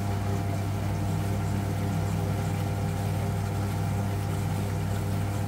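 An engine running steadily at a constant speed: an even, low drone that does not change in pitch.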